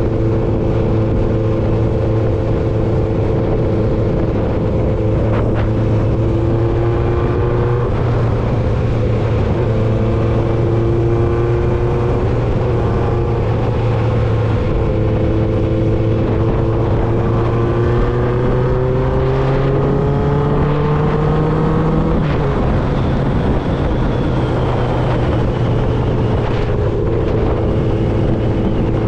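1995 Honda CB750 Nighthawk's air-cooled inline-four running through a Vance and Hines 4-into-1 exhaust under way. The engine note climbs slowly in pitch and drops back at shifts about 8, 12 and 22 seconds in. Wind and road noise run underneath.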